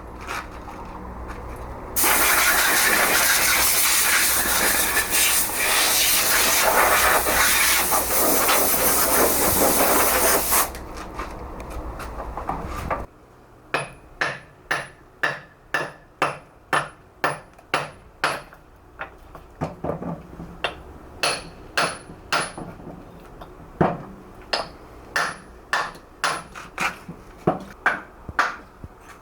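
A loud, even hissing machine noise runs for about nine seconds and then dies away. It is followed by a steady series of sharp hammer strikes, about two a second, each with a short high ring, as a hammer drives a chisel into stone.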